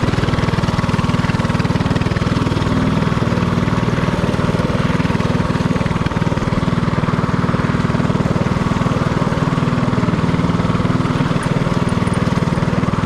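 Predator 224cc single-cylinder four-stroke engine on a mini-bike, running steadily while riding.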